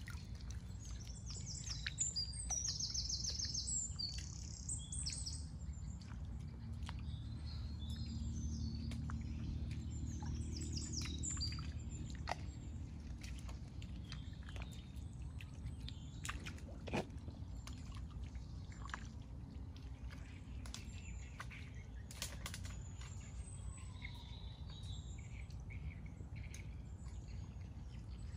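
Birds chirping in quick, high repeated notes, loudest in the first few seconds and again around ten seconds in, over a steady low rumble and scattered short clicks.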